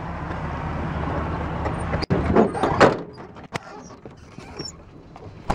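Steady wind-and-vehicle rumble that breaks off about two seconds in, followed by a loud clatter and then a quieter stretch of scattered knocks and clicks.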